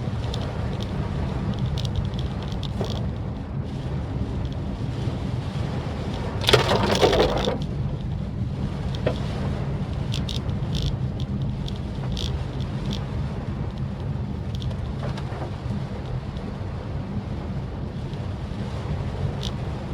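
Steady low road and engine rumble inside a Maruti Suzuki Swift Dzire driving through rain, with scattered light raindrop ticks. About six and a half seconds in, a louder whoosh lasts about a second.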